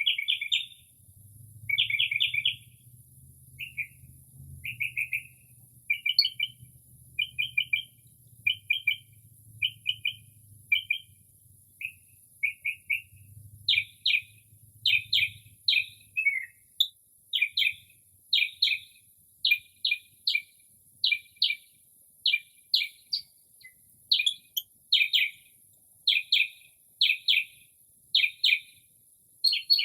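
Northern mockingbird singing at night, mimicking other birds' calls: short phrases about once a second, each repeated several times before it switches to a new one, the later phrases louder and fuller.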